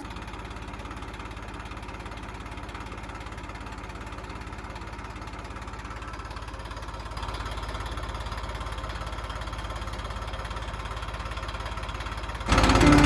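Tractor diesel engine running steadily, getting louder about seven seconds in. Loud music comes in just before the end.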